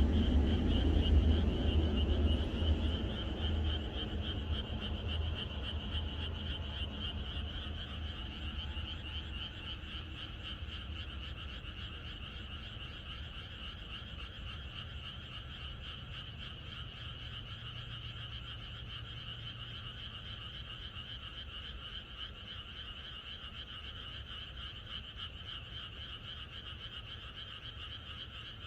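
A chorus of many frogs calling at night, a dense, steady, high-pitched trilling. A low rumble underneath is loudest at the start and fades away over the first several seconds.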